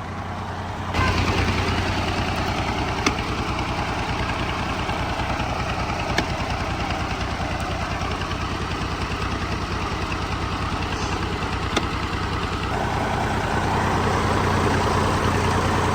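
Heavy diesel farm-machinery engine running steadily under load, with a constant rumble that gets louder about a second in. A few isolated sharp clicks or knocks occur.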